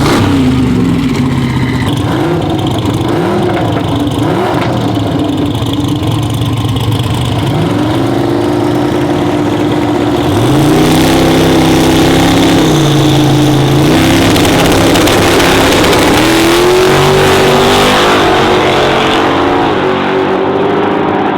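A drag-racing truck's engine revving, its pitch wavering up and down at first, then held at a series of steady speeds that step up and down every couple of seconds.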